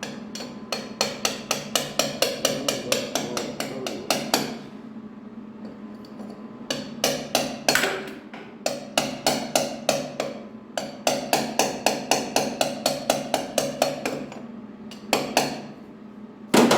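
Hammer tapping on metal in quick runs of evenly spaced strikes, about four or five a second, with short pauses between the runs, over a faint steady hum.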